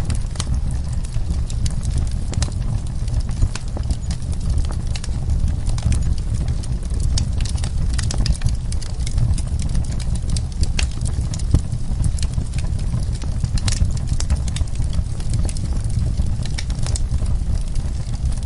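Campfire burning: a steady low rush of flame with frequent irregular sharp crackles and pops from the wood.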